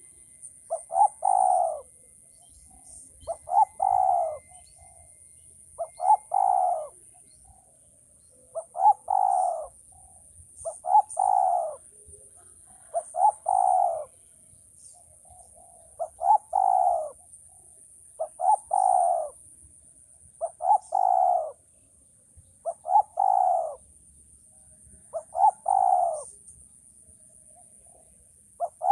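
Male spotted dove (tekukur) cooing its song over and over, a phrase about every two to two and a half seconds, each a couple of short lead notes running into a longer coo.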